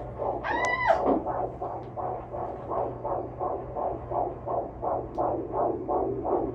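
A woman's short, high-pitched excited scream about half a second in, rising then falling. It sits over a steady pulsing beat of about three pulses a second.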